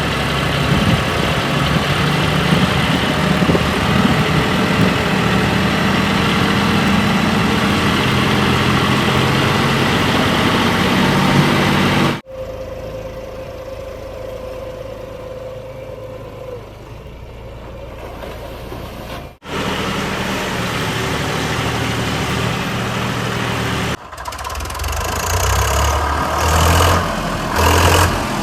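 Heavy diesel machinery engines running, in abruptly cut segments: a loud steady engine for about the first twelve seconds, a quieter stretch with a steady hum, then louder again with surges in engine speed near the end.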